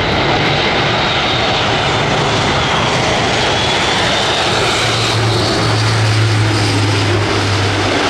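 Airbus A400M Atlas C1's four TP400 turboprop engines running loud as it flies by, with a steady low propeller drone that strengthens over the last few seconds, over a broad rush of engine noise and a faint, slowly falling high whine.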